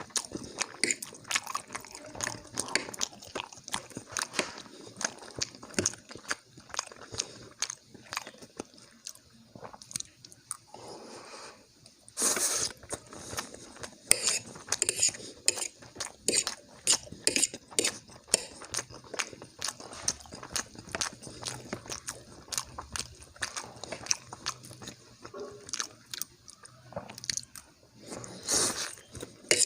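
Close-miked chewing of soft food: rapid wet mouth clicks and smacking throughout, with two louder, longer noisy sounds, one about twelve seconds in and one near the end.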